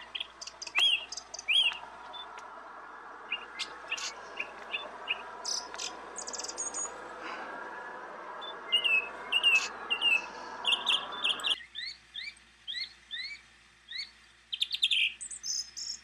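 Small birds chirping throughout: many short, quick, upward-sweeping calls, some in rapid clusters. Underneath, a steady rushing hiss stops abruptly about three-quarters of the way through.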